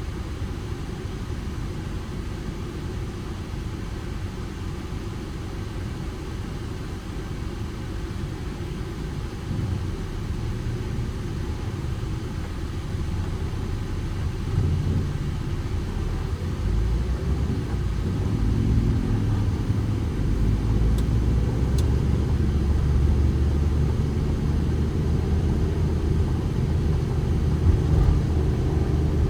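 Manual Ford Transit Connect van driving, its petrol engine and road rumble heard from the driver's seat. The sound is steady at first and grows louder and more engine-toned about halfway through as the van picks up speed.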